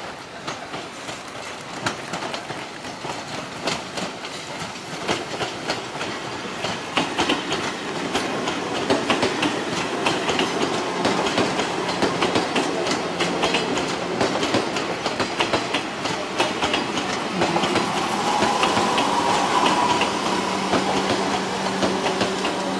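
Six-car Chichibu Railway 1000 series electric train, a former JNR 101 series, pulling into a station. Its wheels clack over the rail joints, growing louder as it draws near and passes. A steady hum sits under the clatter in the second half.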